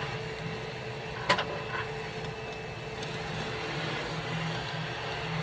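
A steady mechanical hum, with one sharp knock a little over a second in.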